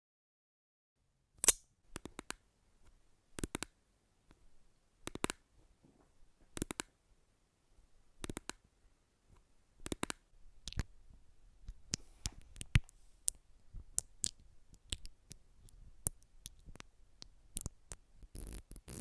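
Rhythmic ASMR tapping: sharp taps and clicks that start about a second and a half in. They come in small groups about every second and a half, then more often from about halfway. A soft rustle comes near the end.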